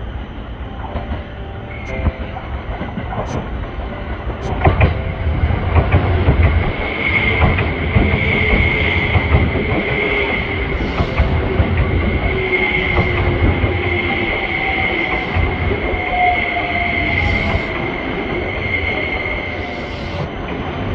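A limited-express electric train rolls slowly past close by on a curve, wheels clacking over rail joints and points a few seconds in. Then the wheels give a steady high squeal over a continuous rumble as the carriages go by.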